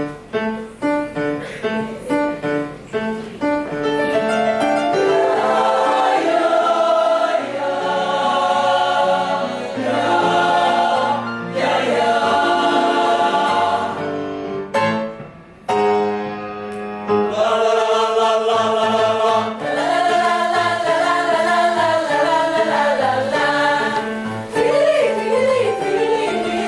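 Choir singing, opening with short clipped notes in a steady rhythm and moving into longer held chords; the sound drops away briefly about fifteen seconds in before resuming.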